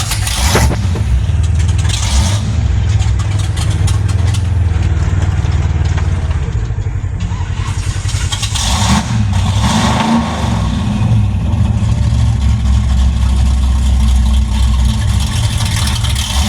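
Mud truck engine running hard and revving, loud and steady throughout, with short bursts of rushing noise near the start and again about nine seconds in.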